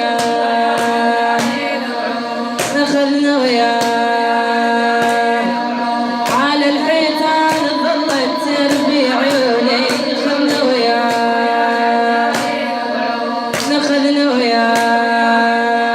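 Shia latmiyya lament: sung held notes over a steady beat of sharp strikes about once a second.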